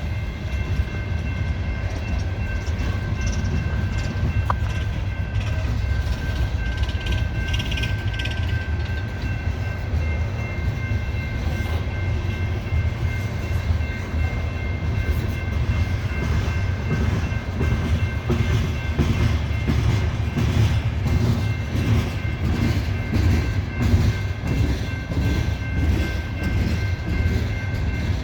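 Loaded coal hopper cars of a slow freight train rolling past with a steady low rumble, the wheels clunking over rail joints more regularly in the second half. A steady high-pitched squeal runs throughout.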